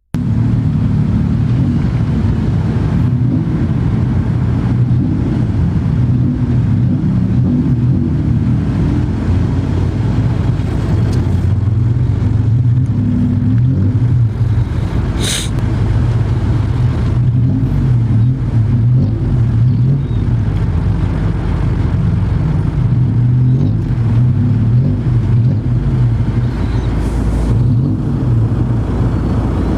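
Steady, loud low drone of a running vehicle engine, with one sharp click about fifteen seconds in.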